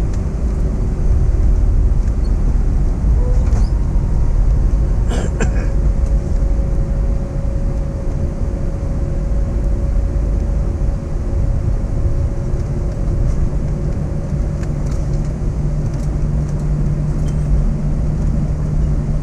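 Airbus A321 cabin noise on the ground just after landing: a steady low rumble from the wheels and idling engines, with a steady hum and a sharp click about five seconds in.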